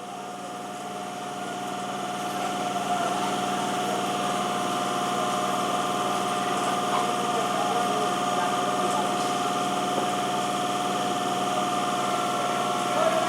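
Steady electrical hum and whine from an EMU train's on-board equipment, holding one pitch throughout and swelling in loudness over the first few seconds.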